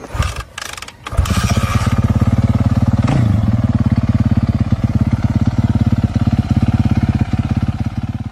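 Motocross bike engine catching about a second in, then running at a steady, evenly pulsing idle, with a brief blip of the throttle about three seconds in.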